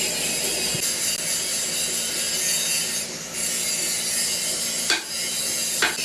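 Steady rasping noise of metalworking machinery, with two sharp knocks near the end, about a second apart.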